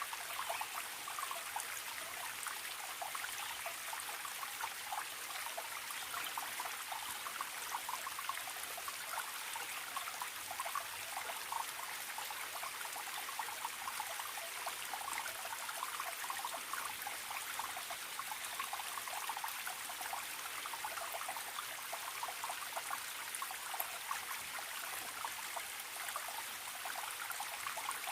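Forest stream trickling and splashing steadily, a constant water noise full of small splashes.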